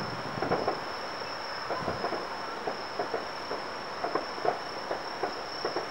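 Distant fireworks crackling in short, irregular pops, a few a second, over a steady high chirring of insects.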